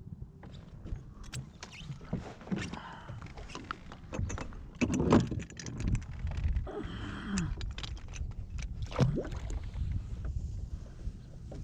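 Kayak on the water with paddle splashes and knocks against the hull over a steady low rumble, loudest about five seconds in.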